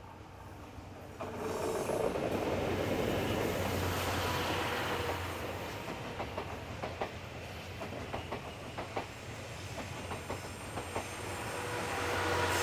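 A train running past, with the wheels clicking over rail joints in an uneven run through the middle.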